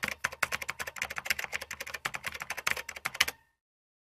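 Computer keyboard typing sound effect: a rapid, dense run of key clicks that cuts off suddenly about three and a half seconds in.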